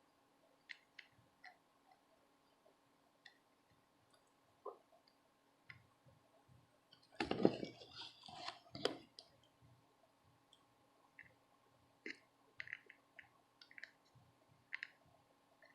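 Faint, scattered clicks and ticks of small tools against a circuit board during hand soldering, over a steady faint hum. A short burst of louder handling and rustling comes about seven seconds in.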